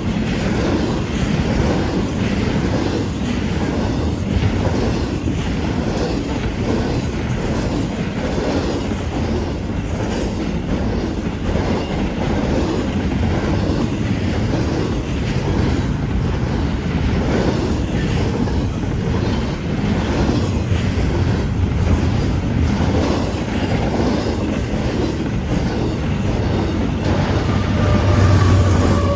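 A train's cars rolling past close by, wheels clicking steadily over the rail joints above a continuous rumble.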